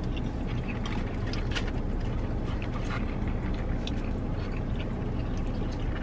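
Close-up eating sounds of people chewing burgers and fries: many small wet clicks and smacks. Under them runs a steady low rumble inside the car's cabin.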